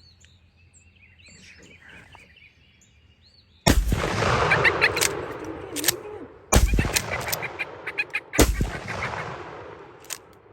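Wild turkey gobbling three times, very loud and close, each gobble starting suddenly and rattling off over a second or two. Faint songbird chirps come before the first gobble.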